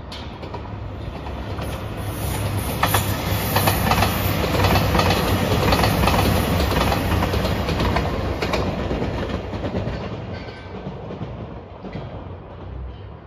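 Diesel limited express train (JR Shikoku 2700 series in yellow Anpanman livery) passing by: its engine and wheel noise build to a peak mid-way and fade as it goes. Its wheels clack over rail joints as it passes.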